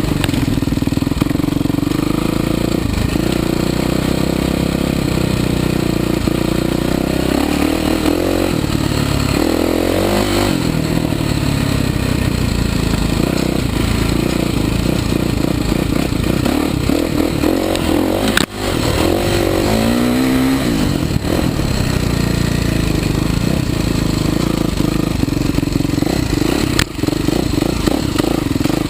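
Kawasaki KX450 motocross bike's single-cylinder four-stroke engine being ridden, its revs climbing and dropping as it accelerates and shifts, with a couple of sharp rising revs along the way.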